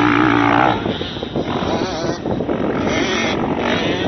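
Dirt bike engines on a motocross track: a steady engine note that breaks off under a second in, then uneven bursts of revving.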